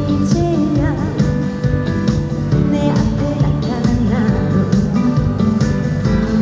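A woman singing a trot song live over loud amplified backing music with a steady beat, her voice wavering in vibrato about a second in.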